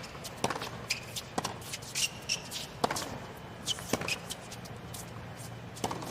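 A tennis point on a hard court: a dozen or so sharp, irregular knocks of ball strikes and bounces, with shoes squeaking, over a steady low stadium hum.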